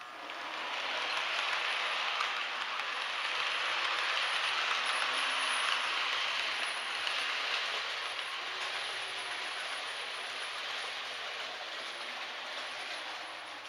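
Model train running along the track of a model railway layout, with a steady noise of wheels on rails. It grows about a second in and slowly eases off toward the end as the train passes.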